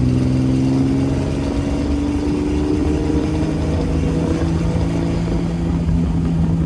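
Car engine running at low parade-lap speed, about 30 mph, heard from inside the car, with road and wind noise. The engine note climbs slowly over the first few seconds, and its low tone shifts about a second and a half in.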